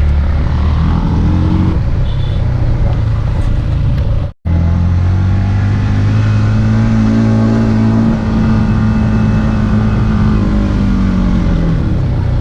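Yamaha MT-15's single-cylinder engine running steadily under way, its pitch rising a little in the middle and easing down near the end. All sound cuts out for an instant a little after four seconds.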